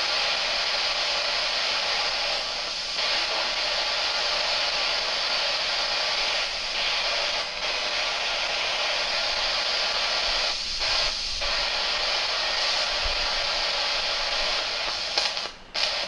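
Steady heavy rain hissing on the roof of a passenger train car, heard from inside the car; it drops away sharply twice near the end.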